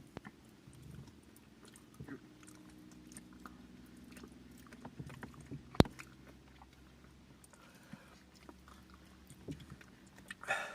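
A low, steady machine hum made of several tones, with scattered light clicks and one sharp click a little past the middle.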